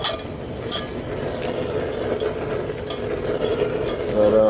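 A few sharp metal clinks as homemade steel-rod tongs knock against a metal cocktail-shaker cup used as a crucible, over a steady rushing noise.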